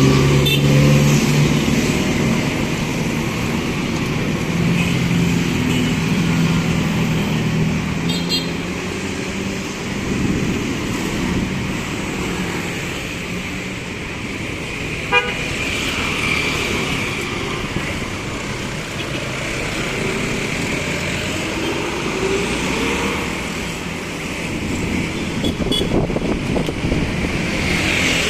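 Busy street traffic: passing cars and motorcycles with their engines running and tyres hissing, and a vehicle horn tooting now and then. There is one sharp knock about halfway through.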